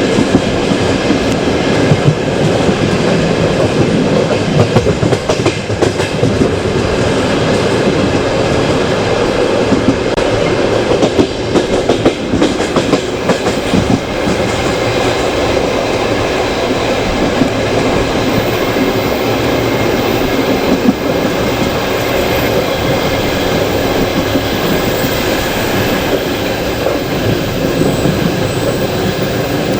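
Passenger train running on the line, heard from a coach window: a steady rumble of wheels on rails, with frequent clicks over the rail joints in the first half, then smoother.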